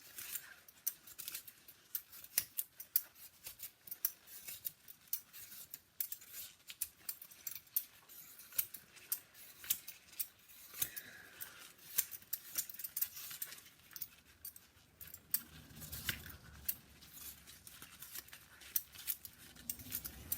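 A raw beetroot being peeled by hand: a quick, irregular run of short, sharp scraping clicks, several a second. A duller handling noise comes in about three-quarters of the way through.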